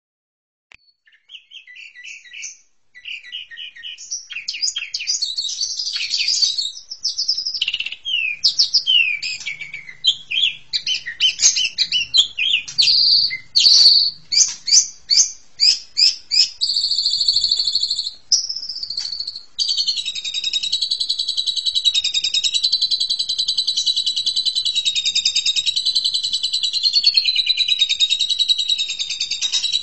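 Asian pied starling (jalak suren) singing: a varied run of whistles, chirps and chattering notes, settling about twenty seconds in into a continuous fast warble.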